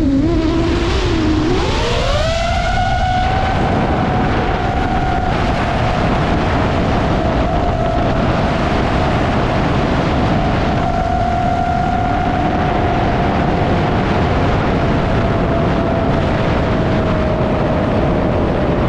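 iFlight Nazgul Evoque FPV quadcopter's motors and propellers whining in flight. The pitch rises sharply about two seconds in as the throttle goes up, then holds steady and sinks slightly near the end, over a rushing noise.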